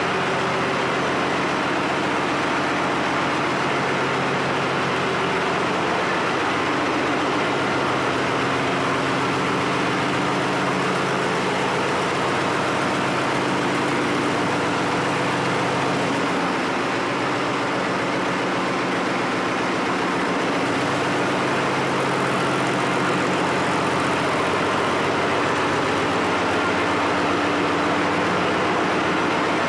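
Ship's engine-room machinery running steadily: a loud, even drone with a low hum of several steady tones that does not change.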